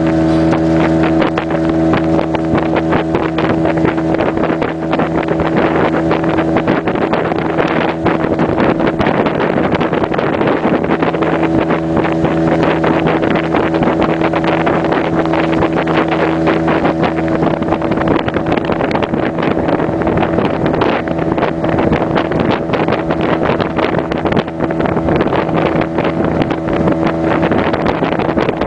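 Motorboat engine running at a steady speed under way, over the rush of water and wind buffeting the microphone.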